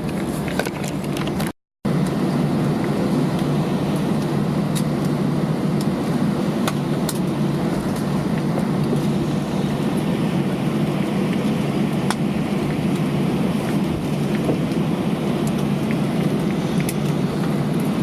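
Steady cabin noise inside an Airbus A320 taxiing after landing: a constant low hum and hiss of the idling engines and air system, with a few faint clicks and rattles. The sound cuts out completely for a moment about a second and a half in.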